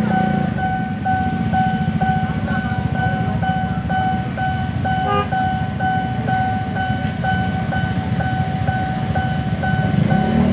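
Railway level-crossing warning alarm ringing in an even pulse, a bit under two rings a second, over the loud rumble of a KRL electric commuter train passing over the crossing.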